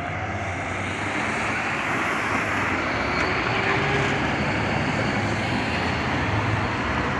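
Engine and road noise of a Scania Marcopolo Paradiso New G7 coach running steadily with a low hum, growing slightly louder.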